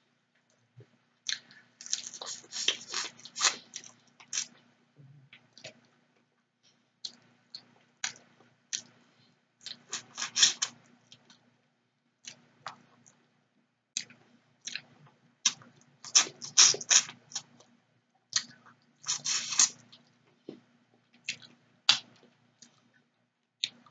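A person chewing and crunching fried tilapia, nibbling it off the bones, with wet mouth clicks. The sound comes in bursts every few seconds with short pauses between.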